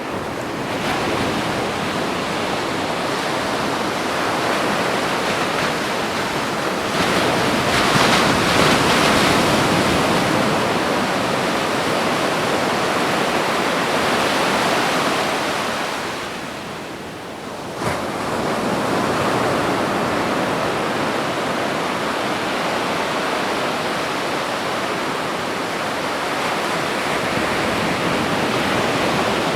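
Ocean waves breaking on a beach: a continuous wash of surf that swells louder with a breaking wave about eight seconds in, dips briefly past the middle, then comes back suddenly.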